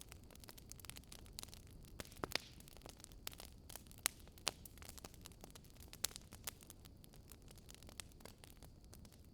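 Crackling campfire: logs burning with irregular sharp pops and snaps over a low steady rumble.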